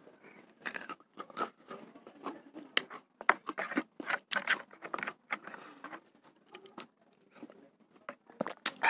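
Close-miked chewing of raw red chili peppers and bakso meatballs: irregular wet clicks and crunches from the mouth, with a metal spoon scraping in a plastic bowl.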